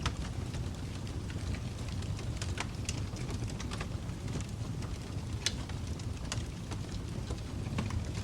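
Wood fire crackling in a fireplace: a steady low rumble of flames with scattered sharp pops, the loudest about five and a half seconds in.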